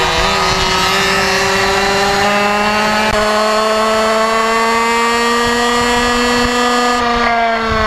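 Motorcycle engine running hard on track, its pitch climbing slowly along a straight, then falling near the end as the bike slows for the next bend.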